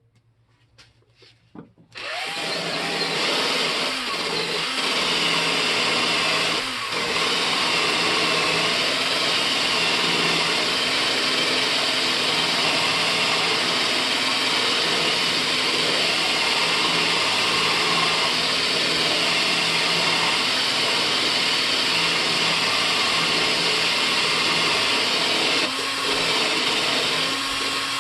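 A few light clicks, then an electric drill starts about two seconds in and runs steadily, cleaning the threads of a gas pipe fitting, with brief dips in speed twice.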